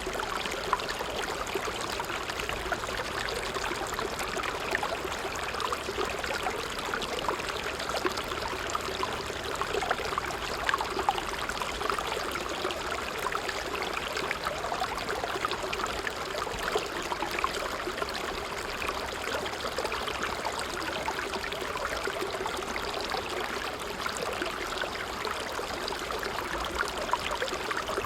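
A creek flowing steadily, its water sound dense with many tiny splashes and little change in level.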